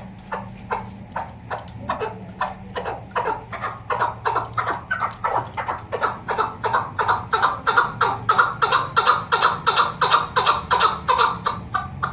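Chukar partridge calling: a rapid run of short clucking notes, about four a second, growing louder through the middle and easing off near the end.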